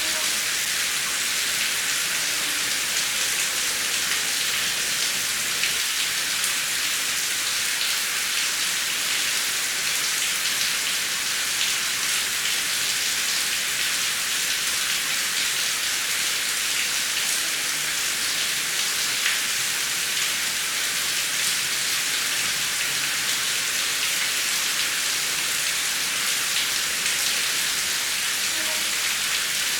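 Heavy rain falling steadily: a dense, even hiss flecked with the ticks of individual drops.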